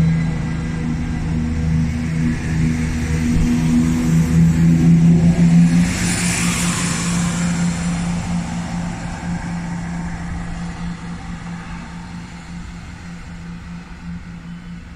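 Diesel train engine running with a steady deep note, growing loudest about five to six seconds in as the train goes past, with a burst of rushing wheel and air noise, then fading steadily away.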